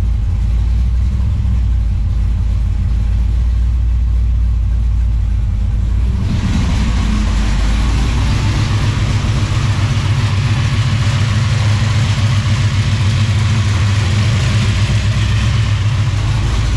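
Supercharged big-block Chevy V8 (a stroked 454 of just over 500 cubic inches with a 6-71 blower) running at idle. It is muffled at first, then about six seconds in turns fuller and brighter with a pulsing exhaust beat as the sound opens up from inside the car's cabin to the engine bay.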